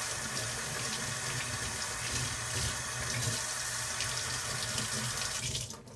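Kitchen tap running steadily into a sink, turned off just before the end.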